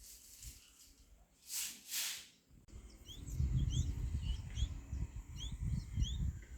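Small birds chirping: short, rising chirps repeated a couple of times a second, starting about two and a half seconds in, over a low rumble. Before them come two brief hissing rushes.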